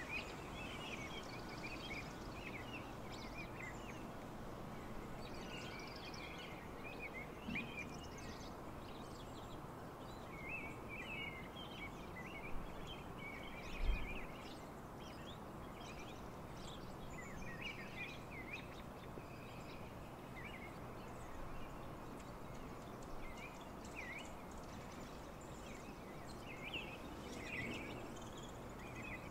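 Birds chirping in short scattered bursts over steady background noise, with a single low thump about fourteen seconds in.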